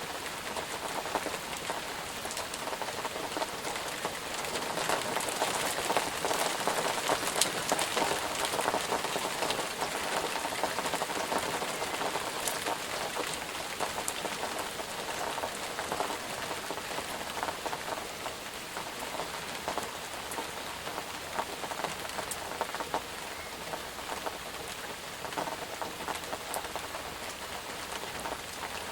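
Steady rain falling on a surface, a dense patter of many drops with individual drop ticks, a little heavier in the middle.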